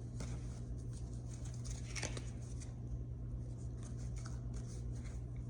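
Tarot cards being handled, with scattered soft clicks and light rustling, over a steady low hum.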